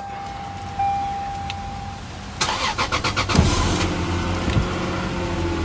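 1999 Lexus ES 300's 3.0-litre V6 cranking for about a second, catching and settling into a smooth, steady idle: a clean start. A steady warning tone sounds for the first two seconds, before the crank.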